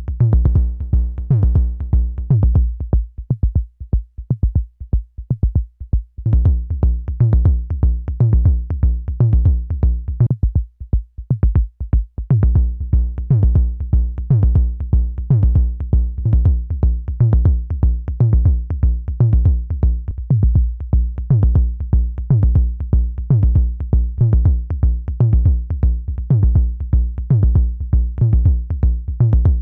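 Analog percussion synthesizer playing a looping sequenced drum pattern: deep kick-like hits whose pitch drops, over a dense run of short clicky hits. About three seconds in, and again about ten seconds in, the low end drops out and only thin clicks are left for a few seconds, then the full pattern comes back.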